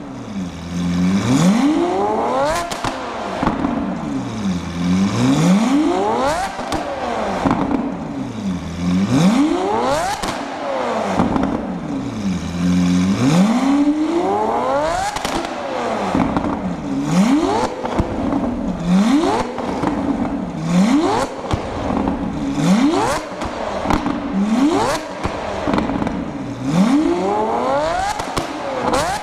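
Lamborghini Aventador V12 through a Kreissieg Valvetronic aftermarket exhaust, blipped again and again, about a dozen quick revs that each rise in pitch and drop back. Crackles and pops come from the exhaust as each rev falls off, the overrun that throws exhaust flames.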